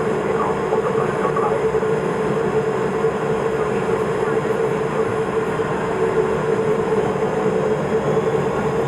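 Cessna P210 Silver Eagle's Rolls-Royce turboprop engine and propeller running steadily: a constant drone with a strong, even hum just under 500 Hz.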